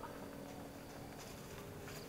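Faint, quiet forest ambience with a couple of soft rustles, about a second in and near the end, from footsteps through ferns and undergrowth.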